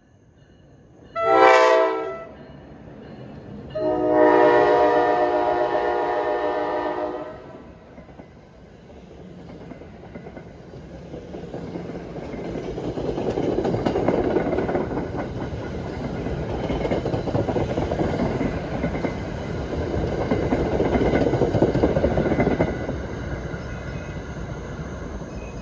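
New Jersey Transit train horn blowing one short blast and then a longer blast of about three and a half seconds, loud and unrestricted. Then the passing commuter train rumbles by at speed, its wheels clattering over the rails, loudest in the middle of the pass and fading as it moves away.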